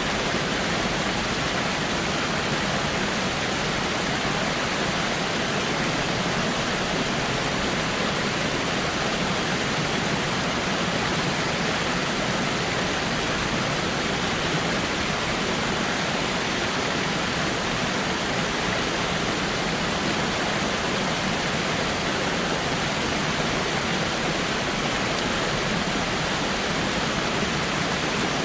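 Waterfall rushing in a steady, even roar of falling water, unchanging throughout.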